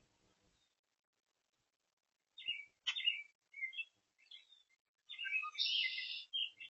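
Oriole singing: short whistled, chirping phrases starting a little over two seconds in, then a longer, harsher chatter near the end.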